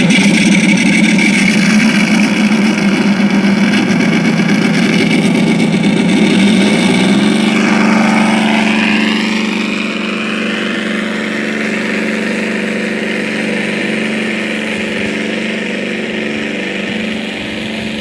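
Onboard sound module in an RC model T-28 Trojan playing a simulated radial engine through its speaker. It starts abruptly and runs steadily, shifting in note about seven to eight seconds in, then settles into a slightly quieter, even run.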